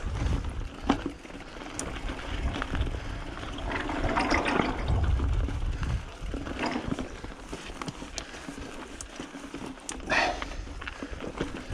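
Mountain bike being ridden over a technical dirt trail section: steady rushing noise on the action camera's microphone with a low rumble, broken by scattered sharp knocks and clatters from the bike.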